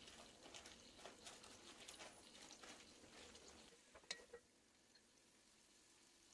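Faint crackling of onions and tomato wedges frying in oil in a pot while a wooden spoon stirs them, with a sharper click about four seconds in; after that the crackle grows quieter.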